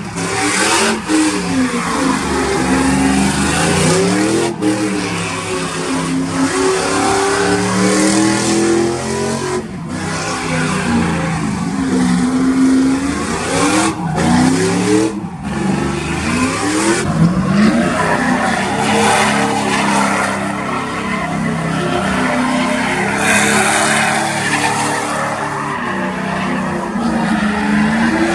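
Truck engines revving hard, their pitch climbing and dropping again and again, at times with more than one engine overlapping, over a steady rushing hiss.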